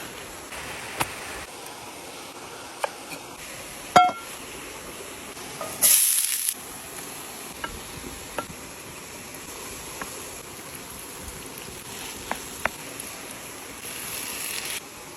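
Food sizzling in a stone cooking pot, with a few sharp clinks of a utensil against it, the loudest with a short ring about four seconds in. A louder hiss flares briefly about six seconds in and again near the end.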